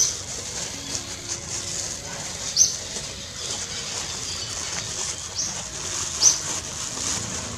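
Outdoor bird ambience: three short, sharp, high-pitched chirps a couple of seconds apart over a steady high hiss.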